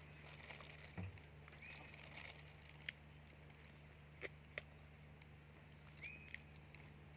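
Quiet outdoor ambience: two short bird chirps, one early and one near the end, over a faint steady hum and hiss, with a few sharp soft clicks scattered between.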